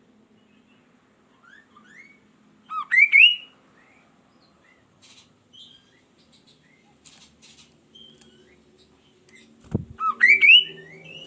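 Kaso-kaso bird in full song: two loud phrases of quick, rising whistled notes, about three seconds in and again near the end, with softer scattered chirps between them. A low thump sounds just before the second phrase.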